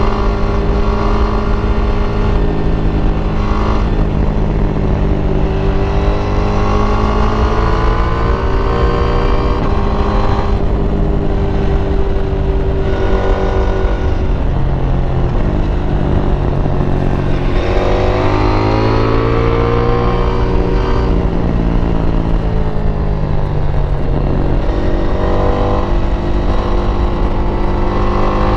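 KTM 890 Duke R's parallel-twin engine through its stock exhaust, ridden hard through corners: the pitch climbs several times as it accelerates and falls away as the throttle closes, over a constant low rumble.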